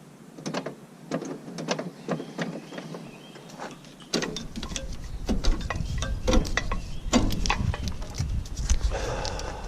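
Irregular clicks and knocks, with a low rumble starting abruptly about four seconds in and lasting until near the end.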